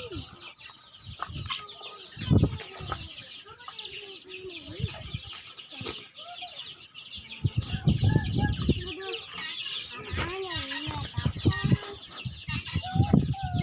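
Chickens clucking, with many short rising-and-falling calls, over a steady high chirping in the background. A few dull low thumps come about two, eight and thirteen seconds in.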